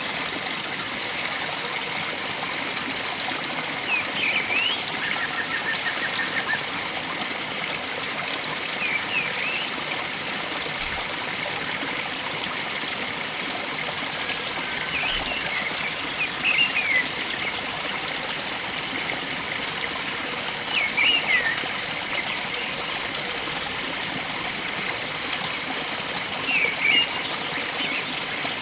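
Steady rush of flowing water, with a bird's short chirping calls breaking in every four to six seconds and one brief trill early on.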